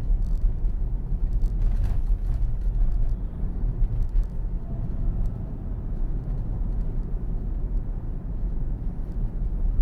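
Steady low road and tyre rumble heard from inside a moving Tesla's cabin.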